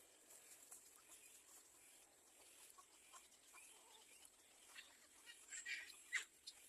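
Faint bird calls over a quiet background hiss, with a cluster of short, sharp calls about five to six seconds in.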